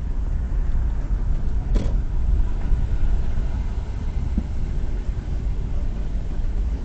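Steady low rumble of a car driving, heard from inside the cabin, with a single short click about two seconds in.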